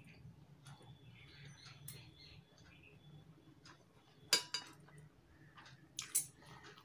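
Faint close-up chewing of rice and fish, with two sharp mouth clicks in the second half. Faint bird chirps in the background early on.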